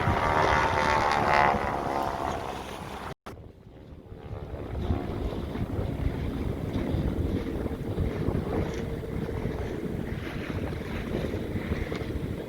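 Wind buffeting the microphone over the rumble of a moving boat and the water around it. A pitched sound falls in pitch over the first few seconds. The audio cuts out abruptly about three seconds in, then the steady wind and boat rumble resume.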